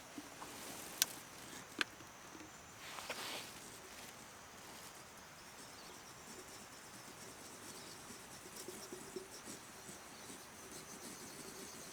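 Outdoor ambience with a steady high insect drone, broken by two sharp clicks about one and two seconds in and a brief rustle about three seconds in.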